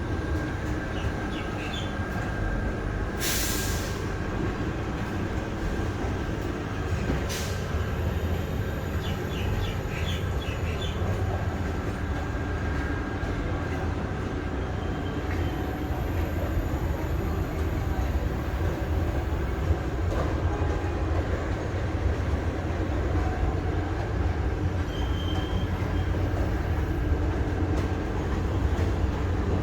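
Vande Bharat Express electric train running with a steady low rumble. A short burst of hiss comes about three seconds in, and a briefer one around seven seconds.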